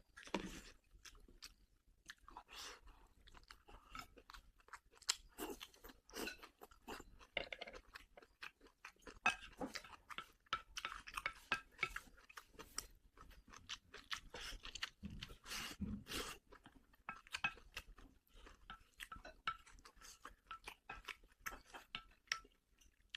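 A person chewing food, with many small irregular crunches and wet clicks of the mouth.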